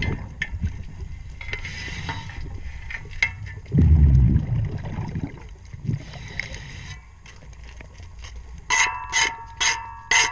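Underwater sound of a propeller being cleaned: a diver's scuba exhaust bubbles rumble twice, about four seconds apart, over faint clicks and scraping. Near the end, a quick run of short ringing strokes, about two a second, as a tool scrapes the metal propeller.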